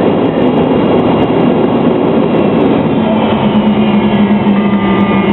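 McDonnell Douglas MD-83 airliner rolling on the ground after landing: a loud, steady rumble. About three seconds in, a steady engine hum joins it.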